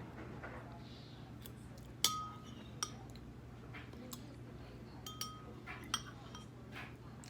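A metal spoon clinking against a ceramic soup bowl a dozen or so times at irregular intervals, the loudest strike about two seconds in ringing briefly. A steady low hum runs underneath.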